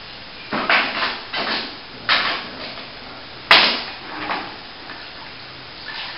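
Steel plastering trowel scraping in short, irregular strokes over a setting plaster top coat, polishing it. The loudest stroke, about halfway through, begins with a sharp click.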